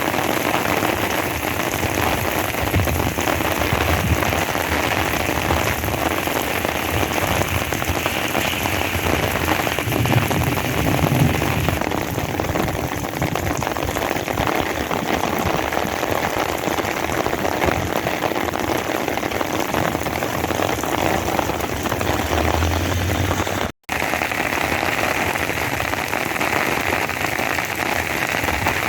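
Steady rain falling, a continuous hiss of rain hitting surfaces. It cuts out for an instant near the end, then carries on.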